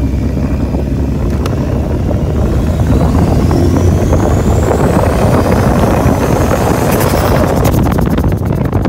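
Turbocharged Honda CR-V four-cylinder engine in an open kart running under way, with wind noise, a thin high whine rising steadily in pitch over several seconds, then a rapid fluttering near the end.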